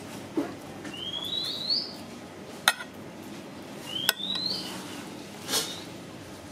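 A bird calls twice, each a short rising whistle, while metal cutlery clinks sharply against a plate twice in between.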